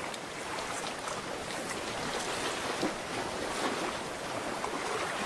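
Sea water washing steadily along a rocky shore, an even rush with faint scattered crackles.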